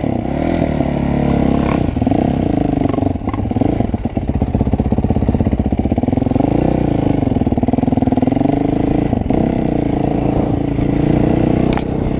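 Four-stroke single-cylinder dirt bike engine under way, its pitch rising and falling as the rider opens and eases off the throttle.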